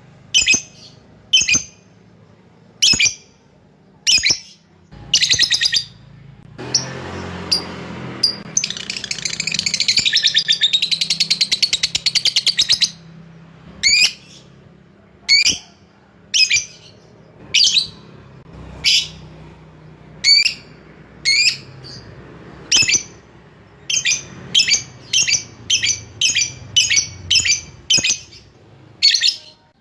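Lovebird calling: sharp, high single chirps about a second apart, broken about a third of the way in by a harsh rasp and then one long, very fast chattering trill (the ngekek panjang) lasting about four seconds, with quicker runs of chirps near the end.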